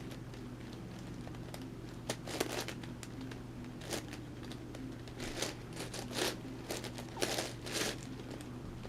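Layers of an 11x11x11 Rubik's cube being turned by hand: irregular plastic clicks and clacks, coming faster in the second half, over a steady low hum.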